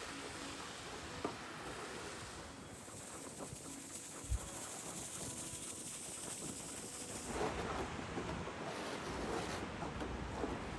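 Outdoor noise of a snowstorm, mostly wind rushing on the microphone, with a single dull thump about four seconds in.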